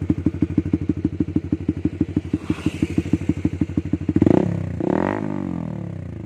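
Motorcycle engine idling through an RCB three-mode exhaust set to racing mode, with fast, even exhaust pulses. About four seconds in, the throttle is blipped twice, the revs rising and falling back each time.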